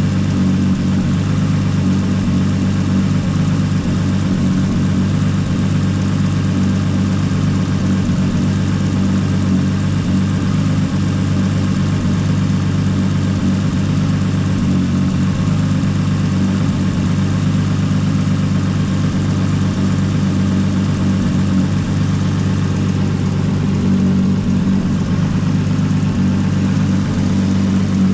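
Nissan Skyline R32 engine with Tomei aftermarket camshafts idling steadily while its cooling system is bled.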